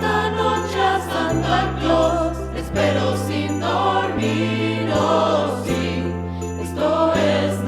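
Christmas choral music: a choir with instrumental accompaniment, over sustained bass notes that change about every second.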